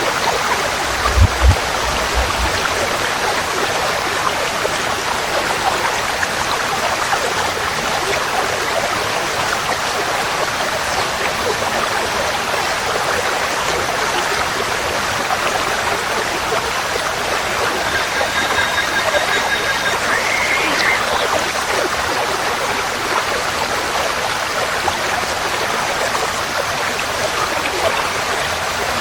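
Forest stream flowing in a steady rush of water. A few low thumps about a second in, and a faint bird call about twenty seconds in.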